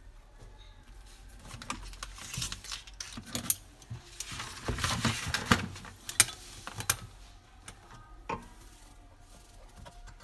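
Irregular clicks and light metallic clinks of small hard parts being handled, busier from about two seconds in.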